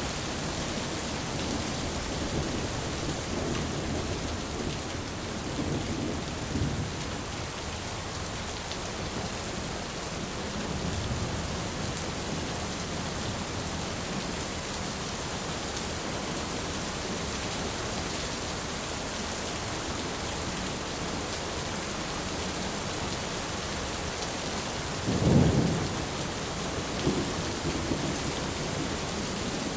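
Thunderstorm: steady, heavy rain hissing throughout, with low rolls of distant thunder in the first several seconds and again around ten seconds in. A louder, sharper thunderclap comes near the end, followed by a couple of smaller rumbles.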